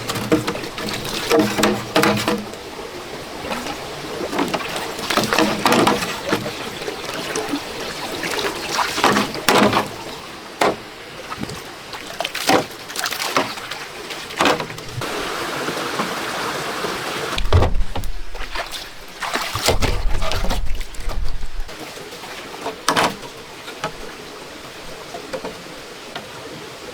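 Water sloshing and splashing in irregular strokes, with a low rumble for a few seconds past the middle.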